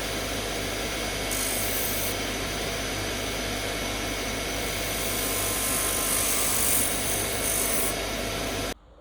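Electric power tool running steadily under load, a motor hum beneath a rasping hiss that swells and fades as the work is pressed against it. It cuts off suddenly near the end.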